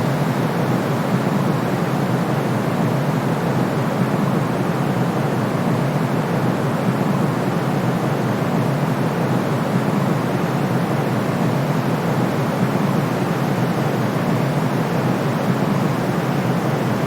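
Steady white noise for sleep: a constant, even hiss weighted toward the low end, with no changes.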